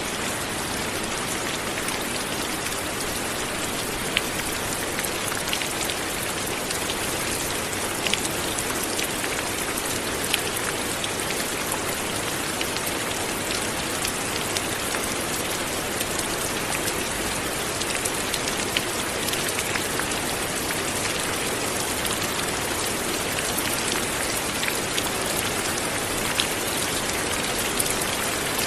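Steady light rain falling, an even hiss with scattered individual drops ticking on a surface.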